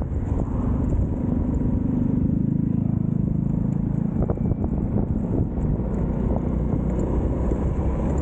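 Motorbike engine running while riding, its note rising and louder for a couple of seconds early in the ride stretch, then settling back.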